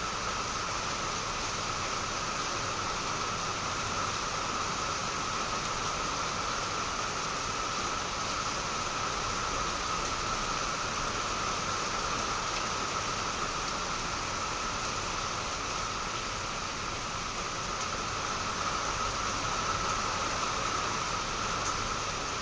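Heavy rain falling steadily, an even hiss with no distinct drops standing out.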